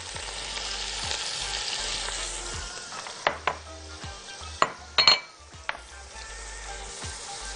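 Chopped onion and sliced mushrooms sizzling in melted butter and oil in a large pot. The hiss is strongest in the first few seconds, then a handful of sharp clinks and knocks come from about three seconds in.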